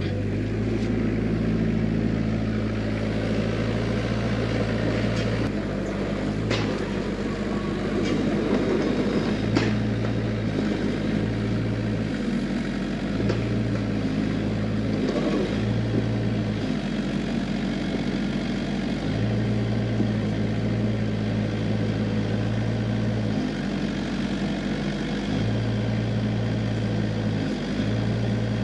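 Mini excavator's diesel engine running steadily under working load, its low note dropping out and coming back every second or two as the hydraulics take and release load.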